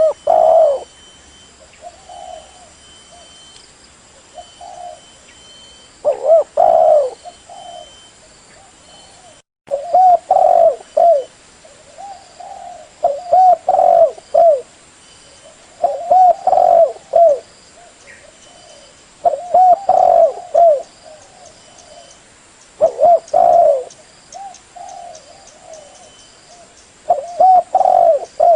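Spotted dove (tekukur) cooing: short phrases of several soft coos, repeated every three to four seconds. It is a lure call used to draw in wild doves.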